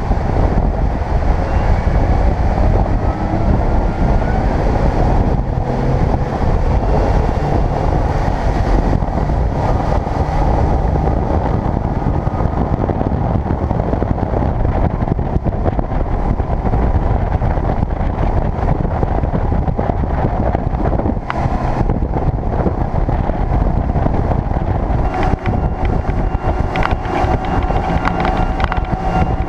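Boat running underway on a 300 hp Mercury Verado outboard, a steady loud drone with heavy wind buffeting the microphone.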